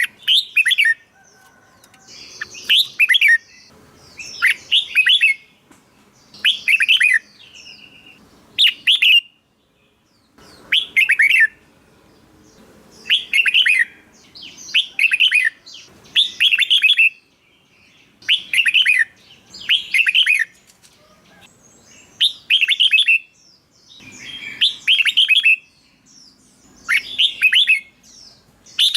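Red-whiskered bulbul singing: short, bright warbled phrases of about a second each, repeated roughly every two seconds.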